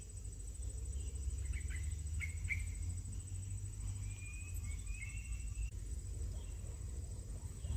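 Bird calls outdoors: a few short sharp chirps, then two or three longer, slightly rising whistled notes about halfway through. A steady high insect trill and a low rumble run underneath.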